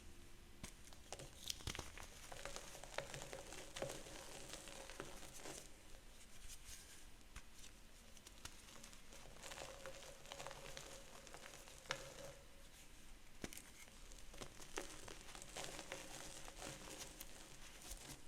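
Gym chalk being crushed and crumbled by hand: dry crunching and crackling full of small sharp snaps, coming in three or so bursts with quieter stretches between.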